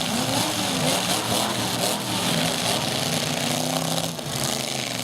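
Several demolition derby trucks' engines running and revving at once, their pitch rising and falling as the drivers work the throttles.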